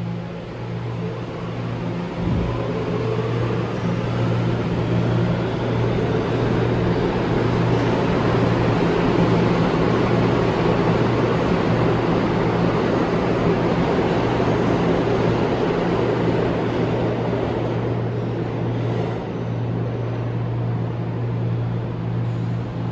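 New York City subway train running through the station with a steady low hum, its rumble swelling to a peak around the middle and easing off toward the end.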